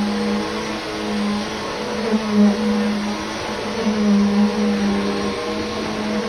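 Vacuum cleaner running steadily: a motor hum over a broad hiss of suction, swelling and dipping slightly in level.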